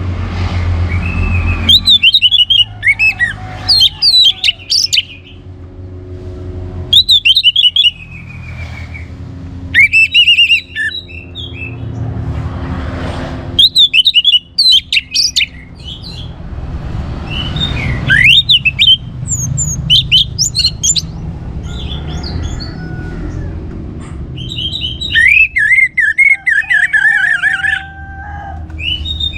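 Orange-headed thrush singing vigorously: loud bursts of rapid, varied whistled phrases and trills, about eight spells broken by short pauses, over a steady low hum.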